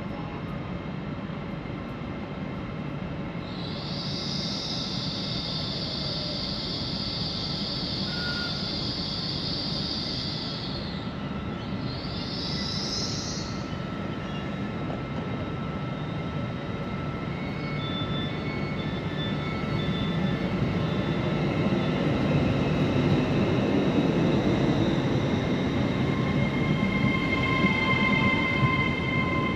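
A train running through a station: a steady rumble, with a long high-pitched wheel or brake squeal a few seconds in and a shorter rising squeal just after. From about two-thirds of the way through, steady whining tones build and the sound grows louder as the train comes closer.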